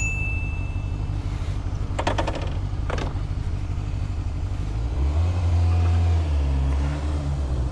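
Motorcycle engine running at idle, with a short high beep at the very start and two sharp clicks about two and three seconds in, then revving up as the bike pulls away about five seconds in.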